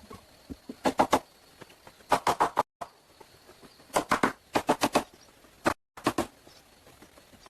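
Sharp knocks in quick runs of three or four strikes, repeated about six times.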